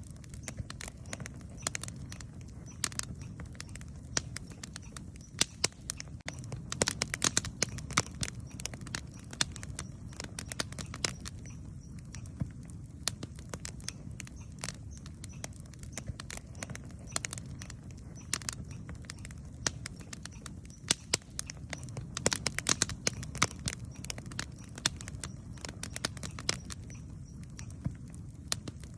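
Campfire crackling: irregular sharp pops and snaps from burning wood, bunching into quick runs about a quarter of the way in and again about three quarters in, over a steady low rumble.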